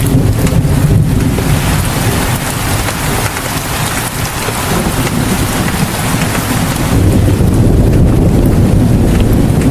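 Heavy rain falling steadily, with a low rumble underneath that eases in the middle and swells again near the end.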